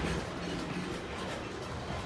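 Freight train of quarry hopper wagons rolling past, a steady rumble of wheels on rails.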